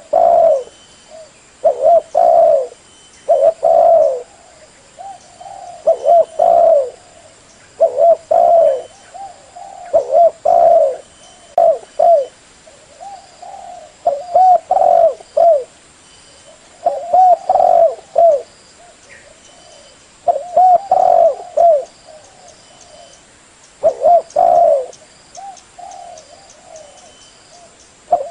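Spotted dove (tekukur) cooing its lure call: loud, low coos in short phrases of a few notes, repeated about every two to three seconds.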